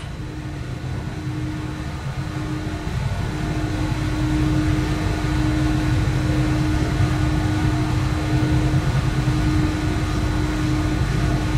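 Interior running noise of a moving S-Bahn passenger train: a steady rumble of rolling wheels with a constant hum, growing slightly louder over the first few seconds.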